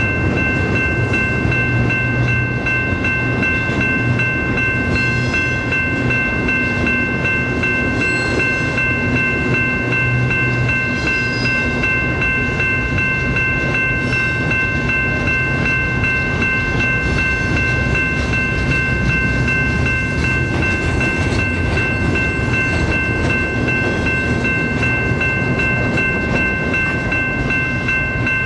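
Double-stack container train's well cars rolling past: a steady rumble of steel wheels on rail, with a steady high whine held throughout.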